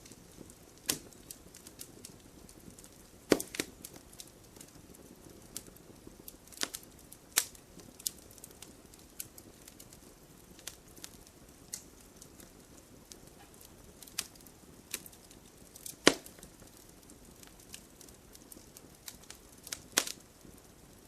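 Wood fire burning in a fireplace: logs crackling with scattered sharp pops and snaps over a soft steady background, the loudest pops a few seconds in and in the last few seconds.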